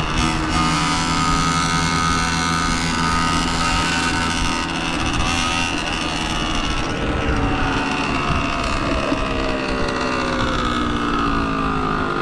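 Dirt bike engine running while being ridden, its note steady at first and then dropping in pitch over the second half as it eases off, with wind on the microphone.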